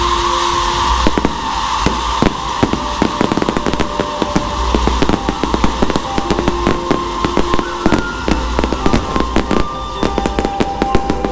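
Aerial fireworks crackling: a dense, rapid, irregular run of sharp pops and crackles from silver-tailed fireworks rising and bursting overhead. A few steady held tones sound underneath.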